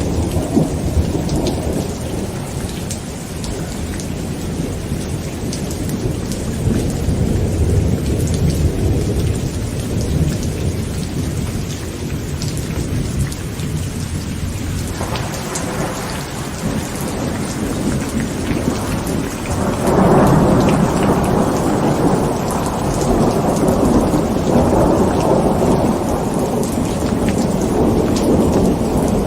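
Heavy rain pattering on a tent with thunder rumbling on and off. A new rumble builds about halfway through, and a louder one breaks in about two-thirds of the way and rolls on to the end.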